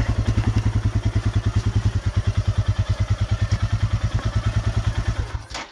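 Royal Enfield Himalayan's single-cylinder four-stroke engine idling with a steady, even beat, then switched off near the end, the beat slowing and dying away.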